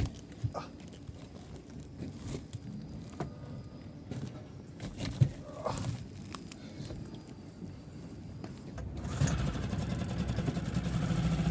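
Scattered light clicks and knocks, then about nine seconds in an engine starts and runs steadily, growing louder.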